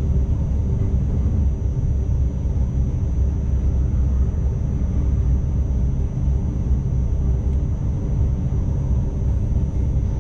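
Steady low rumble of an ICMm intercity electric train heard from inside the driver's cab, with a faint steady whine over it.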